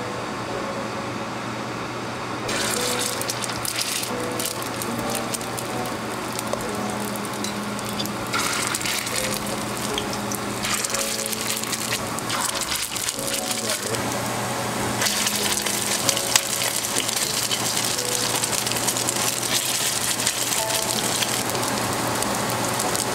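Fish balls frying in hot oil in a stainless steel pan, a dense sizzling and crackling that sets in about two and a half seconds in, under soft background music.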